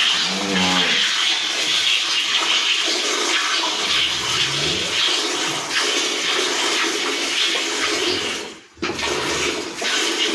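Milk squirting in streams into a pail as a cow is milked by hand, a steady hissing spray that stops briefly once near the end.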